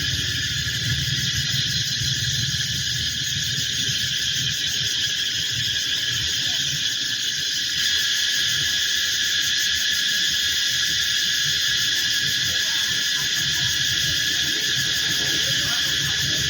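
A chorus of cicadas buzzing steadily, a continuous shrill drone in several high pitches, growing a little louder about halfway through, over a low rumble.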